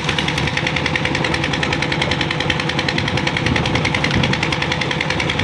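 An old tractor engine running steadily at a constant speed, with a fast, even pulse of firing strokes.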